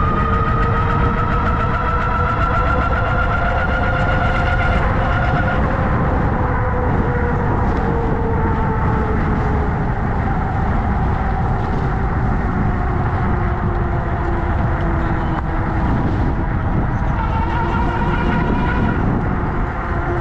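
Motor whine of a ridden motorized bike or scooter, several pitches sliding slowly up and down together with speed, over a steady rumble of wind and road noise.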